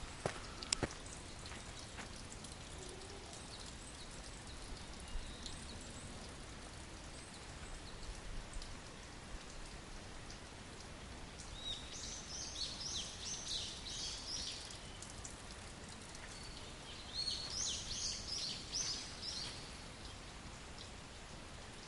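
Steady hiss of water, with a bird singing two phrases of quick, high notes about halfway through and again near the end. A few sharp clicks come in the first second.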